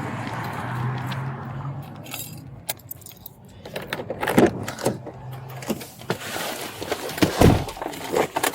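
Traffic noise for the first couple of seconds, then a run of sharp metallic clinks and knocks from about four seconds in, like keys jangling.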